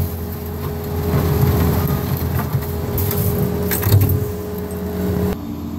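New Holland L230 skid steer's diesel engine running steadily, with a few sharp knocks about three and four seconds in.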